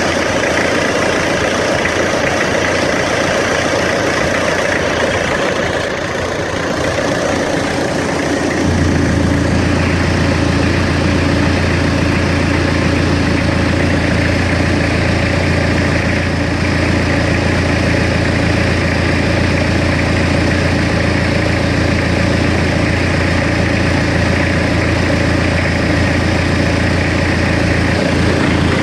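Hyundai D4BH four-cylinder turbodiesel engine idling steadily. About nine seconds in, its sound changes and a steady low hum comes in, which holds to the end.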